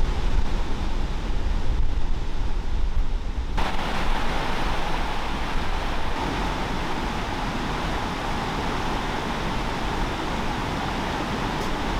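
Steady rushing outdoor noise with a heavy low rumble, changing abruptly about three and a half seconds in to a brighter, even hiss.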